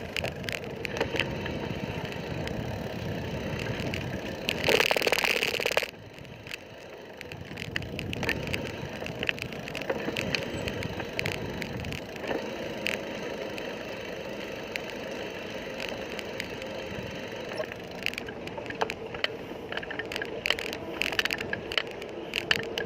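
Bicycle riding on a road: steady road and tyre noise with frequent small clicks and rattles. A loud burst of hiss lasts about a second and a half around five seconds in.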